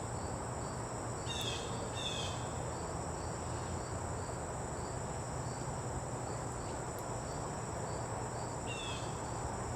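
Insects trilling steadily, one high unbroken trill with a second insect pulsing evenly beneath it. A bird gives a short falling call three times, twice in quick succession about a second in and once near the end, over a low steady background rumble.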